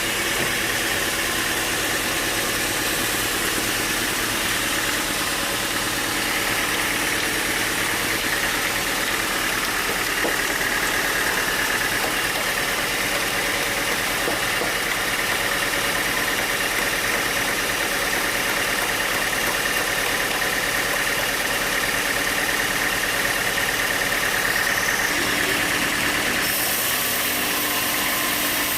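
Sawmill machinery running steadily, a constant mechanical noise with a few steady tones; its tone shifts about 25 seconds in.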